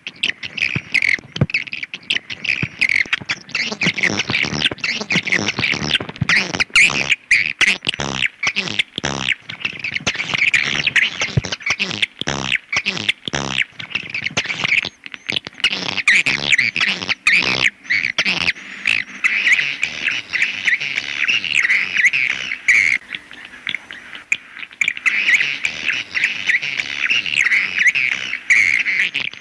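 Swiftlets twittering and chattering in a dense, unbroken flock chorus, shot through with rapid sharp clicks. It is a swiftlet call recording of the kind played to lure swiftlets into a nesting house.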